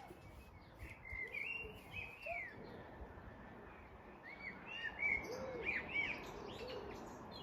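Small birds chirping and singing: runs of short, quick arched notes, repeated several times, over a faint steady background.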